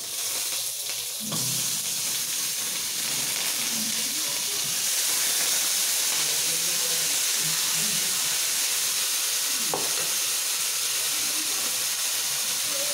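Chicken pieces frying in hot oil in a wok over a gas flame, with a loud, steady sizzle. It starts suddenly as the meat is scraped in from a steel plate with a wooden spatula, and grows louder about a second in.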